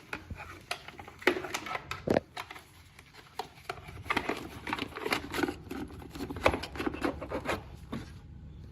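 Hands working on small parts during a motor replacement: irregular clicks, scrapes and rattles of plastic and metal pieces being handled.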